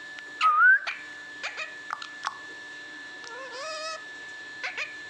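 Pet talking parrot calling. A loud, short warbling call comes about half a second in, then scattered clicks and chirps, and a longer wavering call a little past the middle.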